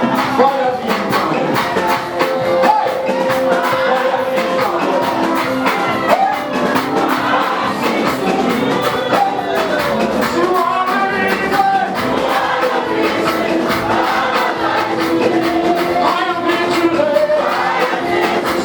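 Live gospel praise music: a group of voices singing together over a steady beat.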